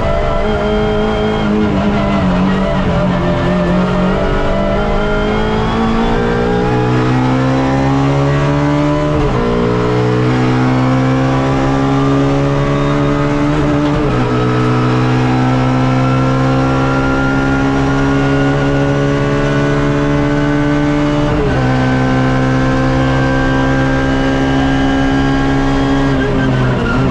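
Suzuki Swift race car engine heard from onboard, running hard. The engine note dips at first, then climbs steadily up through the gears, dropping sharply at three upshifts. Near the end the pitch falls away as the driver lifts off.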